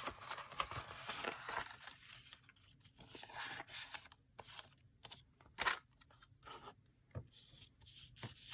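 Paper rustling and sliding as loose pieces of paper are sorted by hand, in short irregular bursts with a couple of light sharp taps.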